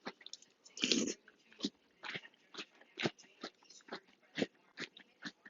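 Chewing crunchy Cinnamon Toast Crunch cereal: irregular crisp crunches, with one longer, louder crunch about a second in.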